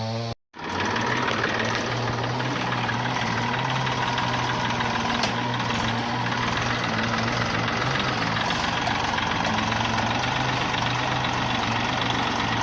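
Tractor engine running steadily at a constant speed, with a brief dropout in the sound about half a second in.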